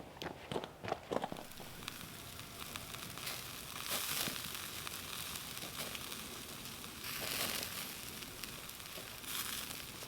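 A few footsteps, then a hissing noise that swells three times, about four, seven and nine and a half seconds in.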